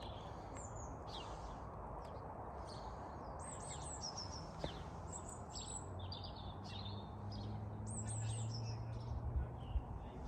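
Small birds chirping repeatedly in short high calls over a steady low background noise. A faint low hum comes in about halfway through and swells slightly toward the end.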